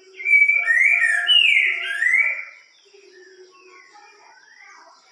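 Green-winged saltator (trinca-ferro) singing one loud phrase of clear whistled notes that slide up and down, lasting about two and a half seconds, followed by fainter chirps.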